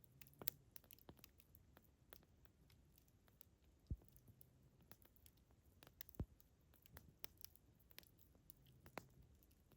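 Campfire wood burning with sparse, irregular crackles and pops, a few sharper pops about half a second, four and six seconds in.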